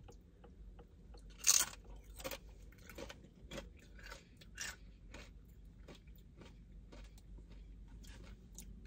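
A person biting and chewing food with crunching sounds: a loud crunch about a second and a half in, then irregular smaller crunches and clicks of chewing.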